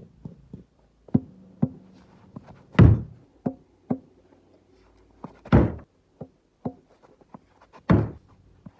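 Cricket ball and bat knocking in a backyard-style game: a run of light sharp taps, with three louder thuds about two and a half seconds apart.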